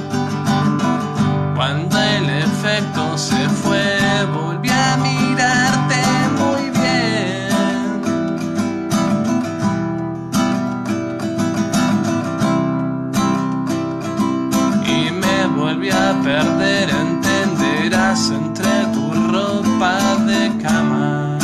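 Song intro with an acoustic guitar strummed steadily, and a wavering high melody line coming in over it at times.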